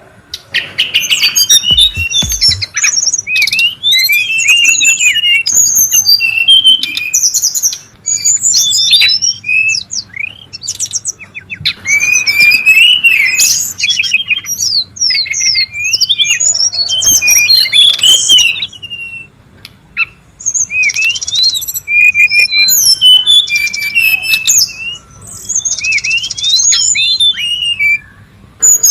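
Brown-chested jungle flycatcher singing. It gives rapid, busy runs of varied chirps, rising and falling whistles and trills, broken by two short pauses, one about two-thirds through and one near the end.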